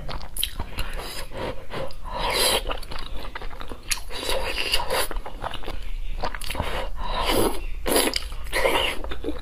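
Close-miked chewing and biting of soft, fatty pork belly: mouth sounds coming in repeated bursts every second or two, with small clicks between them.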